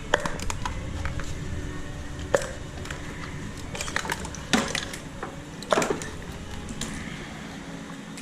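Irregular sharp metallic knocks and clinks of tools and parts being handled in engine-removal work, four louder ones among lighter ticks, some ringing briefly.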